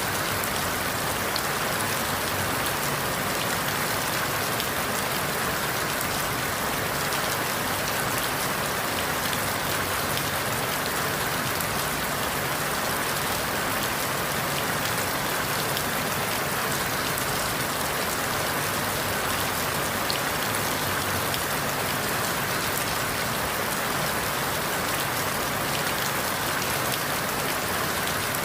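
Steady rain falling on forest leaves, an even hiss of drops with faint scattered patters.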